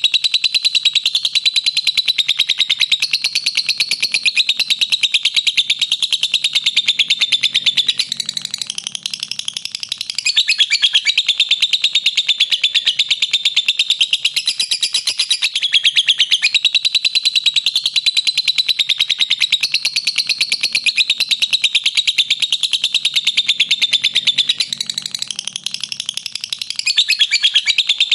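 Lovebird's ngekek: a long, unbroken chatter of rapid, high-pitched notes repeating many times a second. It softens slightly about eight seconds in and again near the end, then picks up again.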